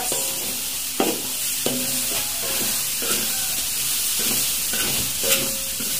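Ground spice paste sizzling in oil in a metal wok, with a metal spatula scraping and knocking against the pan about once a second as it is stirred. The oil has separated from the paste, the sign that it is cooked.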